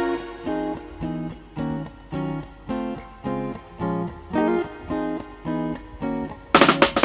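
Music: a guitar picking single notes, about two a second, before a fuller band with drums comes in near the end.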